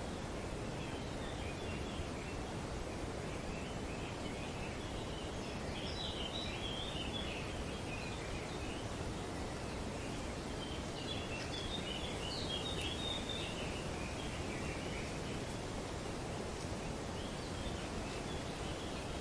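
Steady rustle of wind through trees, with birds chattering in short high calls. The chatter comes in two busier bouts, about six and twelve seconds in.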